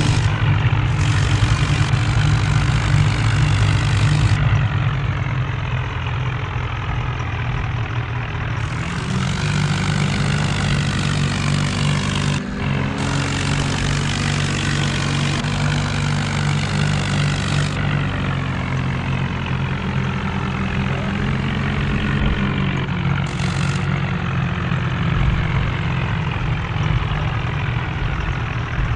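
Tractor diesel engine running steadily, its pitch rising and falling slightly in the middle stretch.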